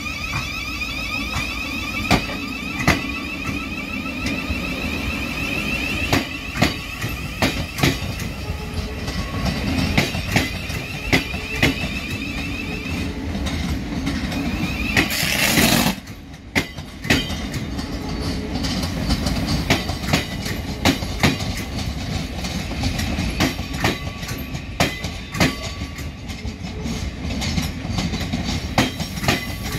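Thameslink Class 700 electric trains pulling out, wheels clacking over the pointwork in a run of sharp knocks. Over the first half, a rising whine from the traction motors climbs again and again. About halfway comes a short loud burst of noise, then the wheels go on clacking.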